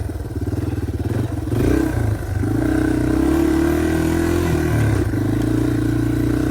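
Dirt bike engine running under the rider, revving up about one and a half seconds in and then holding a steady throttle.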